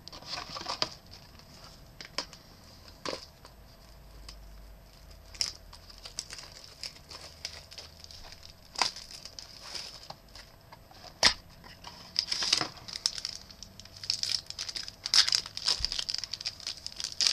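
Crinkling and tearing of a trading card pack's wrapper, with cards and their plastic holders handled and tapped, making scattered sharp clicks. The crinkling grows busier in the second half.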